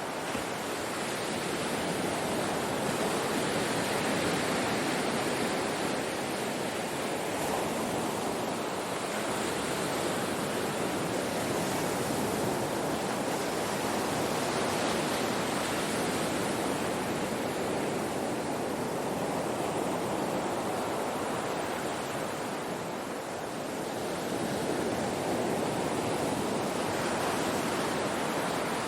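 Ocean waves breaking and washing up on a shore, a continuous rushing surf that swells and ebbs gently every several seconds.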